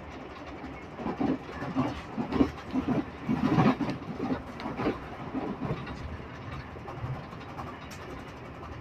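Passenger train running, heard from inside the carriage: a steady rumble with a run of irregular clattering and knocks. The clattering starts about a second in, is loudest a little before the middle, and dies back to the rumble.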